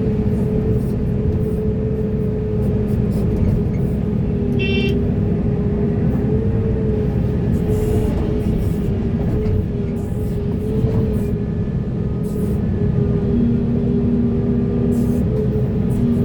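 Heavy diesel earthmoving machinery running steadily: a deep engine rumble with a constant hum-like tone over it and scattered clanks. A brief high beep sounds once about five seconds in.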